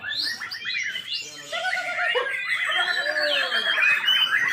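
Many caged songbirds singing and calling over one another in a dense chorus of whistles and chirps, some swooping up and down in pitch.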